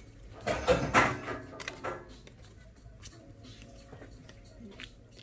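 A man's voice speaking briefly, then a quiet stretch with a few faint soft ticks.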